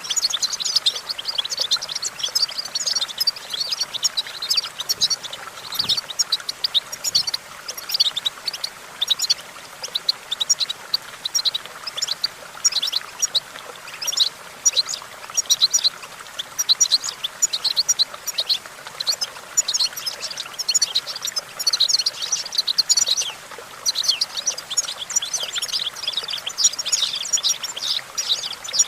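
European goldfinch singing: a long, fast run of twittering chirps and trills with only brief pauses.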